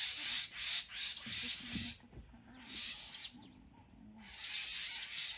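A high-pitched, pulsing chorus of wild animal calls, which drops out twice for about a second in the middle, with faint low voices underneath.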